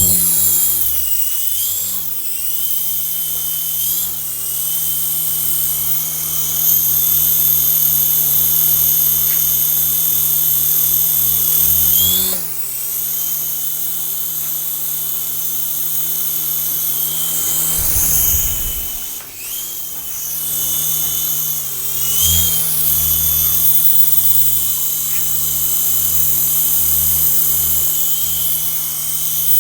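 Small electric motor of a toy RC helicopter running with its rotors whirring, a steady high whine over a low pulsing. The motor speed dips and comes back up several times.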